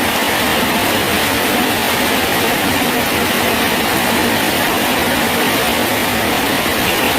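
Steady rain falling on a bridge, an even, unbroken hiss of drops with no separate strikes standing out.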